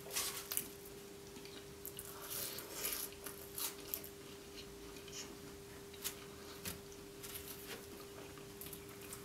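A person chewing and biting into a flaky-pastry spinach roll at close range: scattered soft crunches and crackles of the pastry. A faint steady hum runs underneath.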